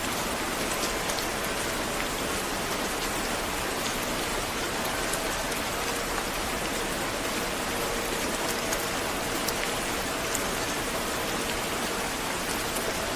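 Steady rain falling: a dense, even hiss with scattered sharper ticks of single drops.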